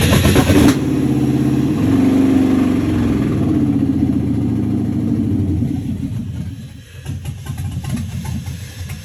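Chevy C-10 truck engine catching and running for several seconds, then turning uneven and sputtering near the end. The owner takes the stumbling for a failing cam sensor.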